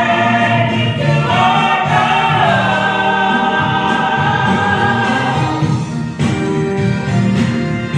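Gospel choir singing with accompaniment, holding long notes; the voices end about two-thirds of the way through and the instruments carry on.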